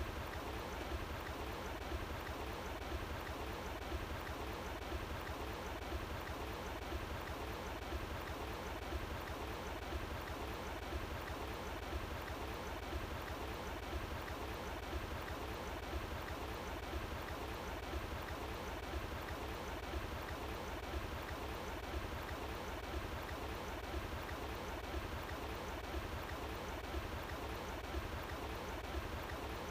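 Running water flowing steadily, an even rush with no breaks.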